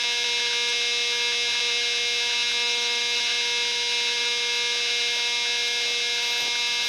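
Electric motor drive of a Multiplex Blizzard RC model plane running at a steady speed, heard as an even electric hum with a buzzing edge.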